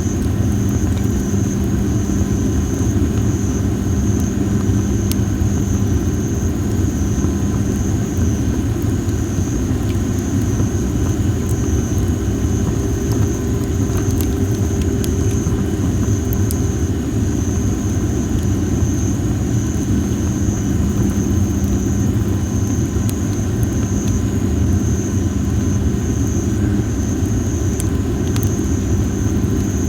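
Well-dried masaki (Japanese spindle tree) firewood burning, giving scattered sharp crackles over a steady low rumble, with a constant high-pitched hum throughout.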